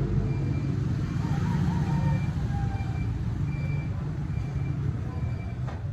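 A motor vehicle engine runs with a steady low rumble, while a short high beep repeats about every half to three-quarter second.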